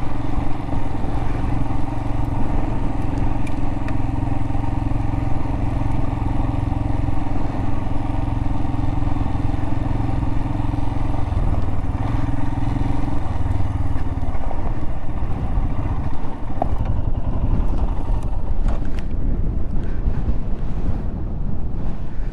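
Royal Enfield Himalayan's single-cylinder engine running steadily as the motorcycle is ridden over loose rock and sand. A little past halfway the engine note drops away, leaving a rough wind rumble on the microphone.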